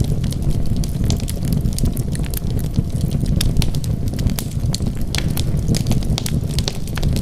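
Wood fire burning with a steady low rumble and irregular sharp crackles and pops of the burning logs.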